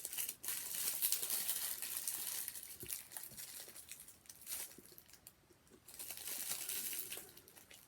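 Sandwich packaging being handled, crinkling and rustling, easing off for about a second past the middle before it starts again.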